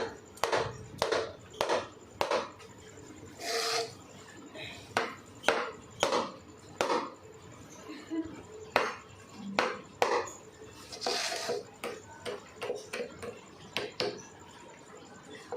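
Irregular knocks and taps on wood, one or two a second, with a couple of brief scraping rubs.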